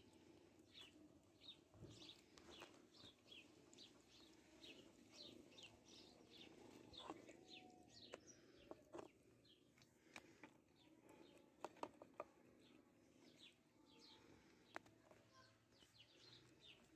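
Faint chirping of small birds: quick, short, falling notes repeated two or three times a second, with a few soft clicks in the middle.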